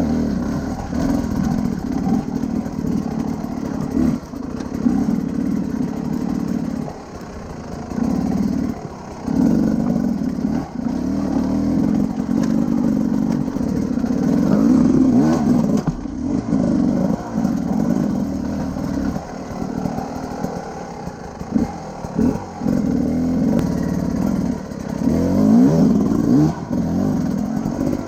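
Big adventure-enduro motorcycle engine as the bike is ridden, the throttle opening and closing. The engine note rises and falls, with brief drops several times as the rider rolls off or changes gear.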